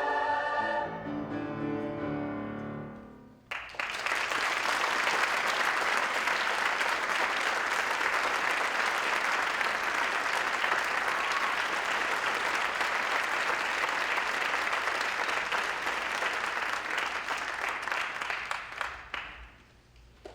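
A school choir's final chord dies away over the first three seconds, then the audience applauds steadily for about fifteen seconds before it fades out.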